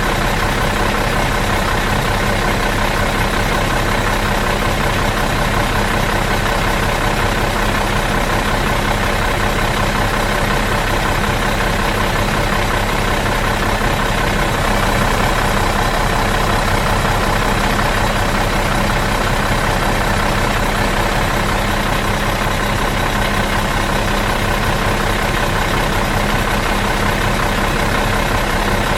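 Bus diesel engine idling in neutral, running at a steady, even speed.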